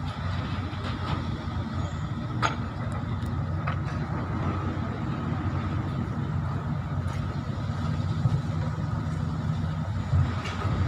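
Engine of a heavy road vehicle running steadily with a low rumble, with one sharp click about two and a half seconds in.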